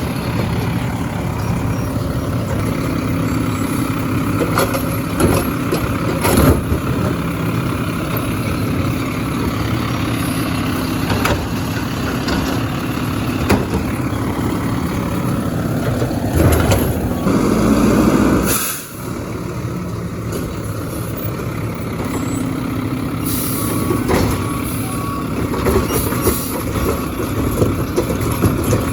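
Garbage truck's diesel engine running steadily, with scattered clanks. About halfway through it builds to a louder surge that cuts off abruptly.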